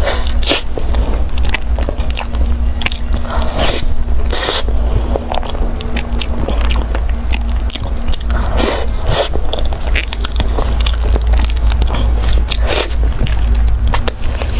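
Close-miked mouth sounds of biting into and chewing a soft custard-filled pastry: irregular wet smacks and clicks with some crunch, going on throughout.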